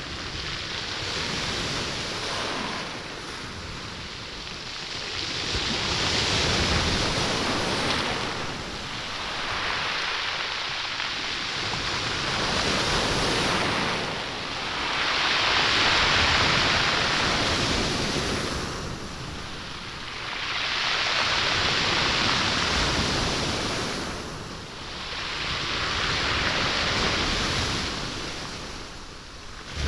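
Waves washing up and drawing back over a stone beach, the stones rolling and clattering in the surf. The sound swells and eases about every five seconds, in some six surges.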